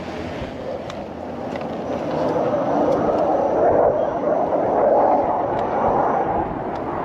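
Military jet flying over, a broad rushing noise that swells about two seconds in and eases a little near the end.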